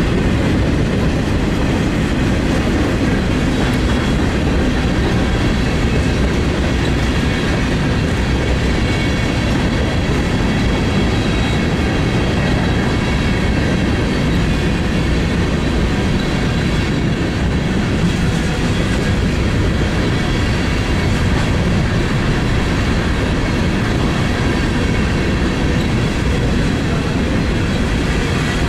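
Freight train's boxcars and covered hopper cars rolling past, steel wheels running over the rails in a loud, steady rumble.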